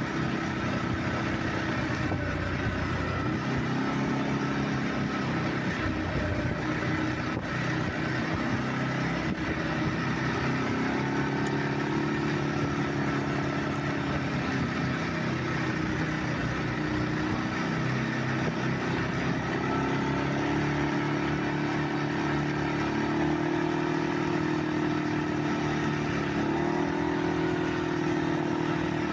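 ATV engine running while riding, its pitch rising and falling as the throttle is opened and closed.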